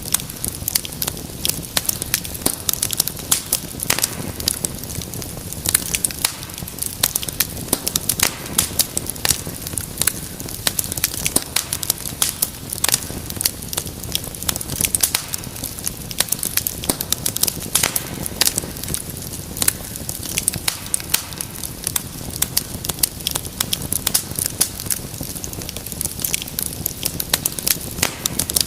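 Wood fire crackling steadily: many small irregular pops and snaps over a low, even rumble of flames.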